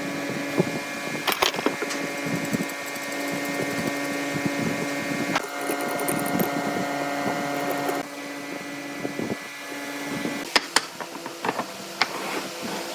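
A woodworking machine's motor running steadily with an even hum, with scattered knocks and clicks over it. The hum changes abruptly about five and a half seconds in and again about eight seconds in.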